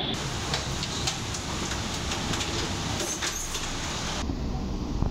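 Light-rail (LRT) train running past, a steady low noise, with scattered light clicks and knocks on top.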